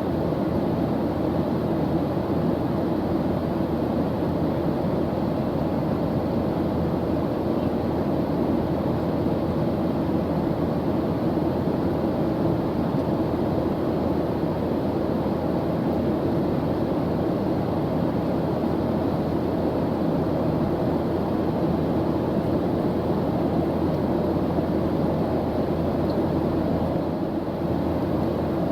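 Steady drone of an airliner's engines heard in flight, a low even rumble with a hum in the lower middle that does not change.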